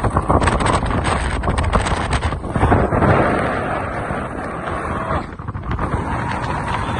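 Strong wind buffeting the microphone in rough gusts, swelling loudest about three seconds in: the wind blast driven ahead by a massive avalanche off the glacier.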